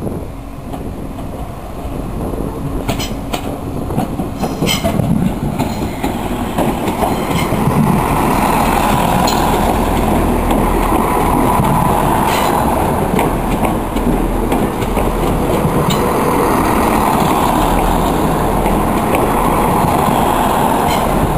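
Southern Class 171 Turbostar diesel multiple unit approaching and passing close alongside the platform. It grows louder over the first several seconds, then runs at a steady, loud level, with engine drone and scattered clacks of wheels over rail joints.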